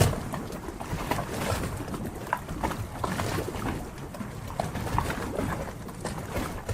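Harbor water lapping and sloshing steadily, with many small splashes and knocks scattered throughout.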